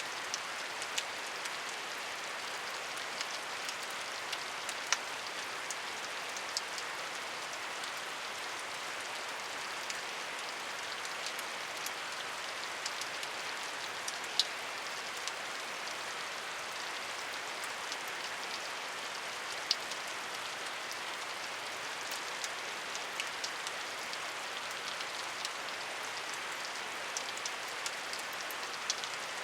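Steady rainfall, a continuous hiss of rain with scattered individual drops ticking sharply on a surface now and then.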